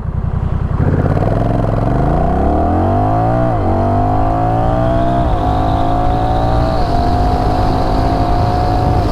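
Honda Rebel 1100 DCT's 1084 cc parallel-twin engine, through a Coffman's Shorty exhaust, pulling away from a standstill under hard throttle. Its revs climb and the dual-clutch gearbox shifts up three times, each shift a brief dip in pitch. Wind noise builds with speed.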